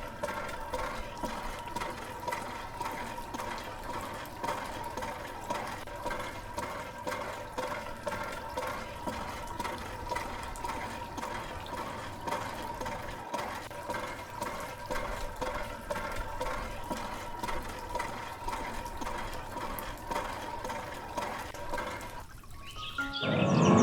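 Small electric mini water pump humming with a steady whine while water pours and splashes; it stops about 22 seconds in. A cow moos near the end.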